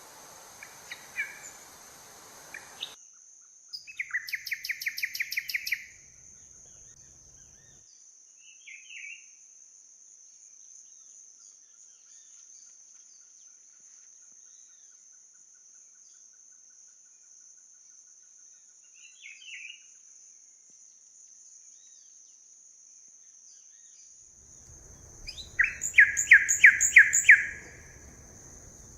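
Forest birds calling: a burst of rapidly repeated notes, a couple of short chirps, then a louder fast run of repeated notes near the end, over a steady high-pitched drone.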